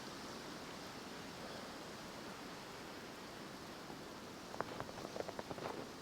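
Steady hiss of wind outdoors in a snowstorm; from about four and a half seconds in, a run of short irregular crunches like boots stepping in snow.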